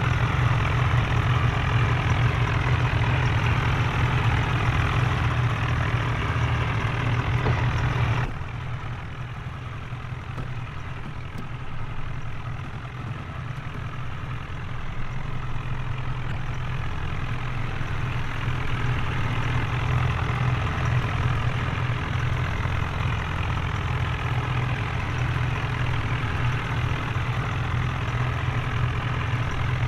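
Tractor engine running steadily with a low, even drone. About eight seconds in it drops suddenly quieter and duller, then gradually grows louder again.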